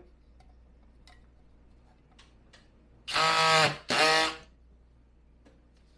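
Drywall screw gun run in two short bursts about halfway through, each motor whine spinning up and winding down, with faint handling clicks around them. It is failing to drive the screw home into the drywall.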